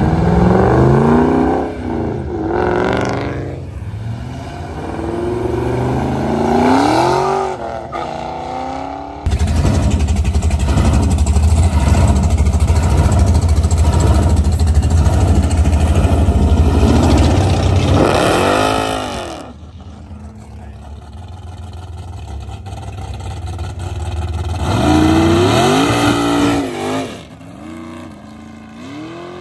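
Muscle cars accelerating hard away one after another, the engine pitch sweeping up and dropping back at each gear change. The loudest part, from about nine to nineteen seconds in, is a supercharged Chevy Nova's engine at full throttle, loud and steady. Another hard rev-up comes near the end.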